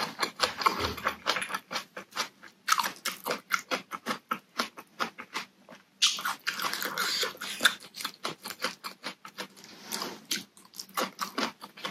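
Close-miked chewing of a mouthful of salmon sashimi with raw onion and papaya salad: wet mouth smacks and crisp crunches in quick, uneven runs.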